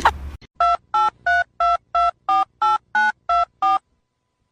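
Touch-tone telephone keypad dialing: ten short beeps, about three a second, each a blend of two pitches, starting about half a second in and stopping near the end.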